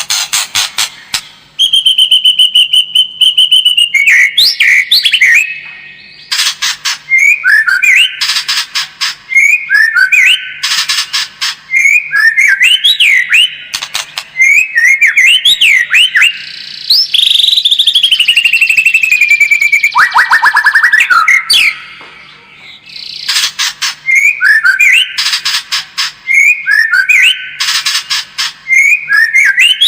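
White-rumped shama singing loudly: whistled phrases and quick up-and-down glides mixed with fast, harsh rattling clicks. There is one long held whistle near the start.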